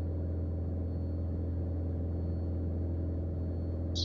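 Single-engine Mooney M20J's four-cylinder engine and propeller droning steadily in the cabin during a climb.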